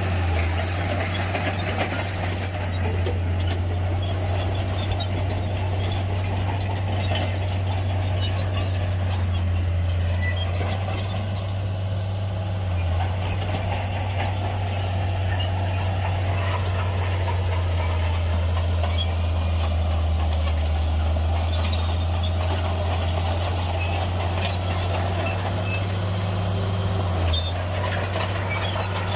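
Heavy diesel engine of earthmoving machinery running steadily at a low, even drone, with a brief change in its note about a third of the way in and again near the end.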